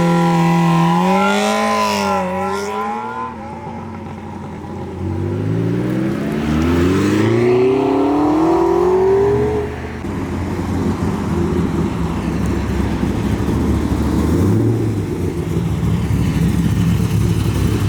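Loud modified car engine revving hard, then accelerating with the pitch climbing steadily through the revs until it cuts off abruptly about ten seconds in. A lower, rough engine rumble follows, with a short blip of revs near the end.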